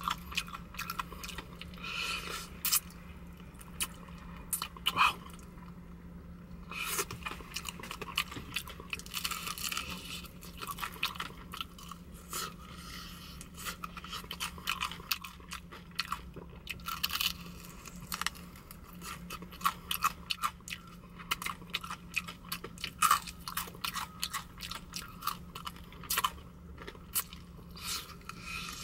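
Popeyes fried chicken being eaten close to the microphone: chewing with irregular crunches of the crispy breading and many small sharp clicks throughout as the meat is picked off the bone.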